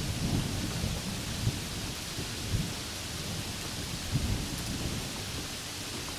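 Steady heavy rain hissing, with the low rumble of thunder rolling on and fading in the first second and rising again briefly about four seconds in.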